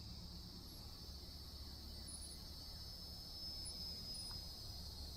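Steady insect chorus, a continuous high-pitched buzzing drone that holds level throughout, over a faint low rumble.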